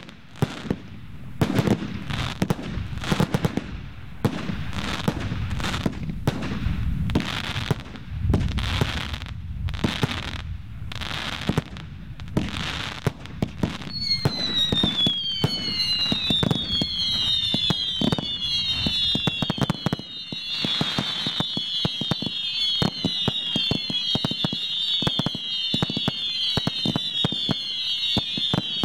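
Fireworks display: a steady run of bangs about once a second. About halfway through, a dense chorus of whistling fireworks takes over, many overlapping shrill whistles each falling in pitch, over constant crackling.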